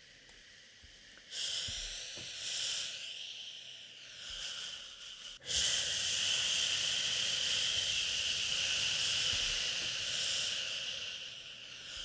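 Shushing ('shhh') to soothe a crying baby: a few shorter, swelling shushes starting about a second in, then one long, steady, louder shush from about halfway.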